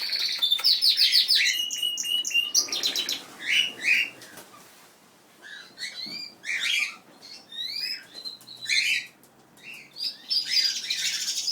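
Aviary of canaries and cockatiels chirping and singing, with fast high trills over the first few seconds, scattered calls and a lull around the middle, and dense song again near the end.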